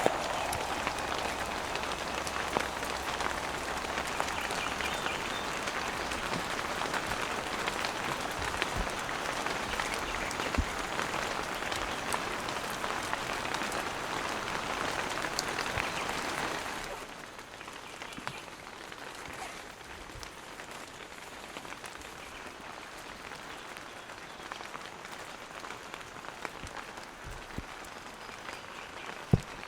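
Heavy rain falling, a dense hiss of drops with many small sharp drop hits. About two-thirds of the way through it drops suddenly to a softer, quieter rain, with a couple of knocks near the end.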